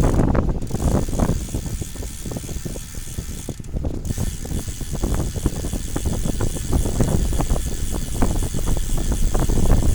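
Rattling and clicking of a bike running down a rough downhill road, over a steady low rumble of wind buffeting the microphone.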